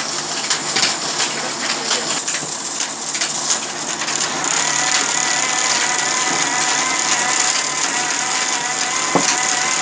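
Sawmill machinery running: a noisy rattle with scattered clicks, joined about halfway by a steady high whine.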